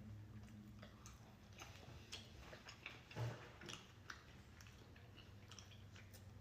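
Faint chewing of food, with small scattered mouth clicks and a slightly louder click about three seconds in.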